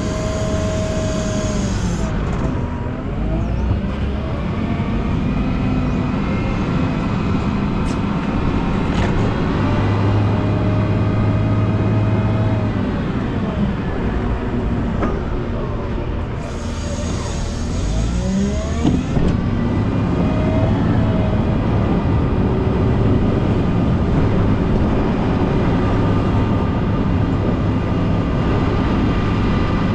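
Volvo L90H wheel loader's diesel engine working while pushing snow with a U-plow, its pitch rising and falling repeatedly as the machine speeds up and slows. Two short bursts of hiss come through, near the start and a little past halfway.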